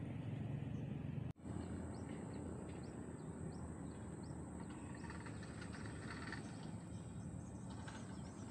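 Small birds chirping in a run of short rising notes, over steady outdoor background noise with a thin high-pitched whine; the sound drops out for an instant about a second in.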